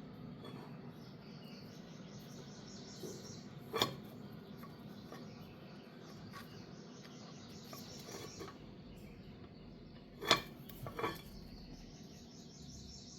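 Sparse sharp metallic clinks of tools or motor parts being handled: one about four seconds in and two close together near the end. Under them are a low steady background and a pulsing high chirr of insects that comes and goes.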